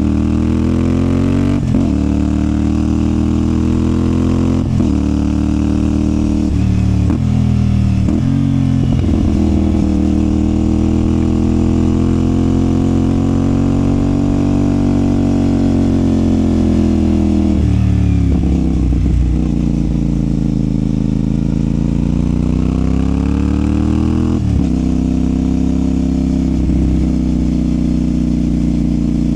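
CFMOTO 450SR sport bike's parallel-twin engine and exhaust under way. It pulls through several quick upshifts in the first eight seconds or so, the pitch breaking at each shift. It then swells slowly up and back down in revs, dips sharply around the middle, climbs again and drops off near the end before running steadily.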